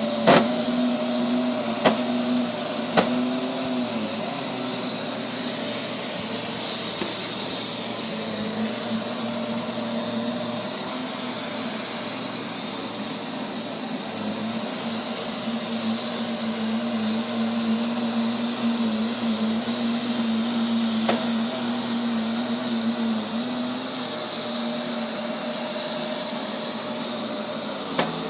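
Neato robot vacuum running with a steady motor drone and a high whine, with a few sharp clicks in the first few seconds and another about two-thirds of the way through. This is the sudden loud noise the owner reports it making at random intervals and lengths on a nearly new unit.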